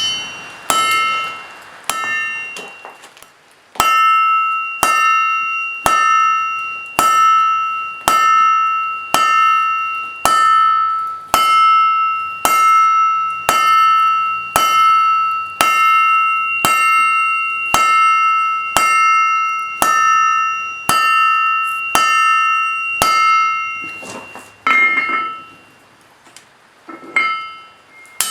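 Forging hammer striking steel on an anvil at a steady pace of about one blow a second, each blow leaving the anvil ringing at the same pitch. The blows come irregularly for the first few seconds, run steadily for about twenty strikes, then stop for a moment and resume with a few more near the end.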